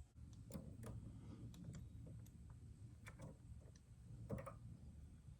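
Faint, scattered small clicks and taps of carburetor parts and throttle linkage being handled during reassembly, with one slightly louder click about four seconds in, over a low room hum.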